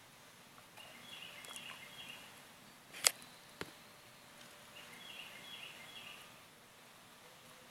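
Quiet outdoor ambience with a bird singing a short chirping phrase that repeats every three to four seconds. A sharp click about three seconds in is the loudest sound, followed by a fainter one.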